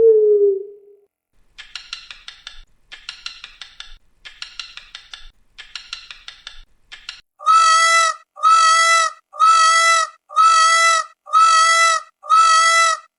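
A series of animal calls: a low hoot fading out at the start, then five bursts of rapid clicking chatter, then six evenly spaced, steady-pitched calls about a second apart.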